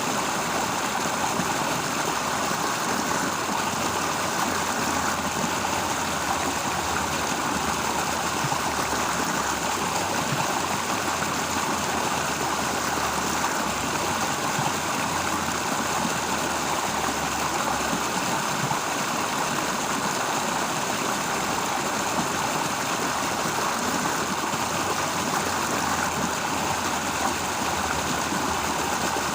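Flowing stream: a steady, unbroken rush of running water.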